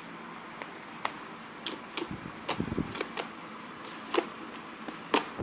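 Homemade jiggly water slime being handled, giving off scattered sharp clicks and small pops at irregular intervals, with a cluster of them a little past halfway.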